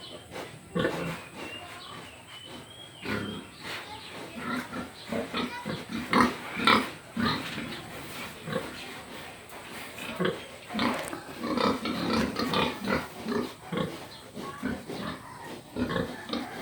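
Pig grunting repeatedly in short, irregular grunts.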